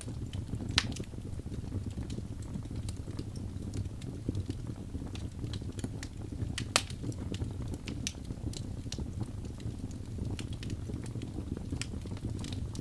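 Crackling fire: a steady low rumble of flames with scattered sharp pops and snaps, two of them louder, about a second in and near the middle.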